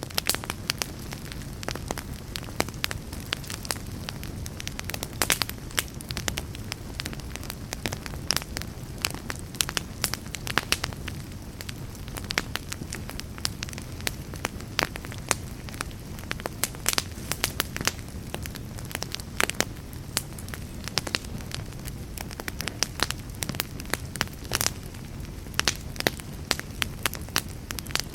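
Wood fire burning in a fireplace: a steady low rumble of flames under frequent, irregular sharp crackles and pops from the burning logs.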